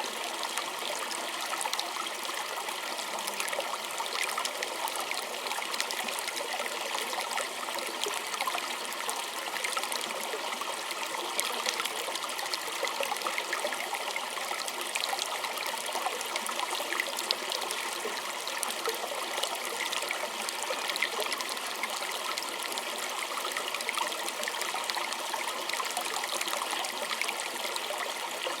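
Small stream of water trickling and splashing steadily over stones, a bright, continuous babble.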